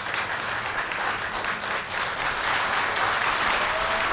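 Audience applauding steadily in a concert hall, dense continuous clapping.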